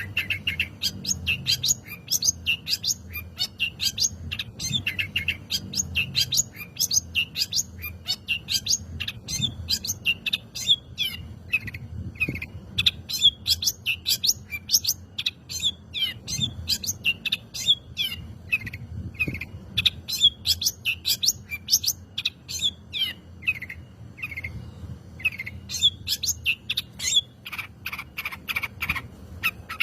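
Long-tailed shrike (cendet) singing: a rapid, unbroken string of short high chirps and trills, several notes a second.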